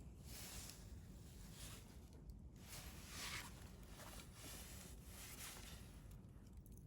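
Wood campfire burning quietly in a stainless steel fire grill: faint soft hissing swells of the fire, about one a second.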